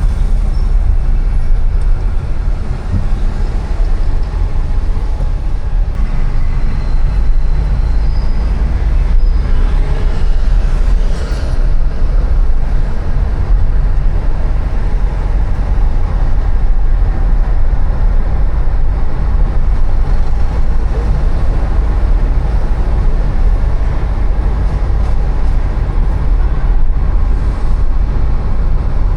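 Steady city street traffic noise recorded on the move, dominated by a heavy low rumble with an even hiss above it and no single standout event.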